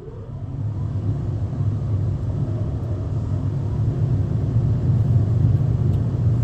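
Ryko Softgloss XS rollover car wash machine running: a steady, loud rumble with a hiss above it that swells over the first second.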